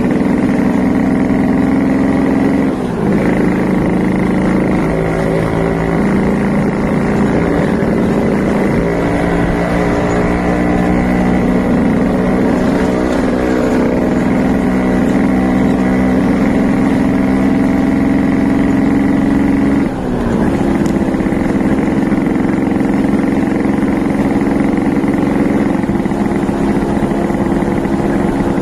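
Suzuki A100 single-cylinder two-stroke motorcycle engine running steadily. Its pitch dips briefly about three seconds in and again about twenty seconds in, then settles at a new steady note, shifting a few more times in between.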